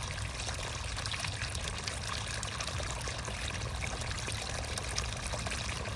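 Creek water trickling and running steadily, with a constant babble of small splashes.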